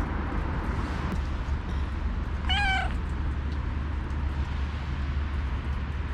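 A cat gives one short meow about halfway through, over a steady low background rumble.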